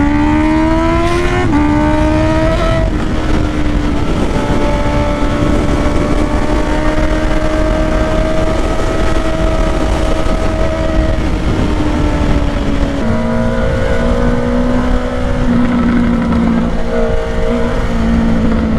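Honda CBR650R inline-four running through a Black Widow exhaust with the dB killer removed: the revs climb with two quick upshifts in the first three seconds. It then holds a steady cruise, steps down in pitch about 13 seconds in, and runs steady again over rushing wind.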